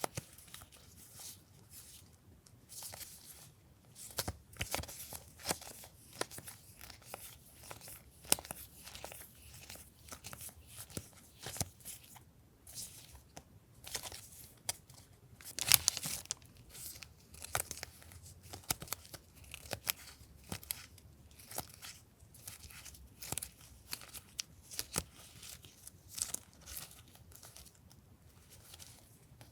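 Stationery packaging being handled and opened by hand: irregular crinkling, rustling and tearing of plastic and paper, with one louder crackle about halfway through.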